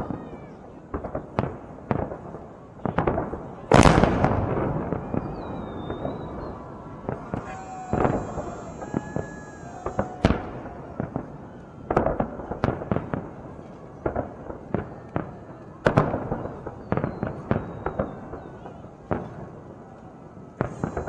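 Fireworks display going off: a steady run of sharp bangs, often one or more a second, each trailing off in an echo, with the loudest burst about four seconds in.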